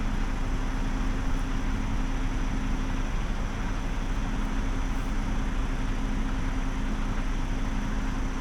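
Semi-truck's diesel engine running steadily, a low rumble with a constant hum over it.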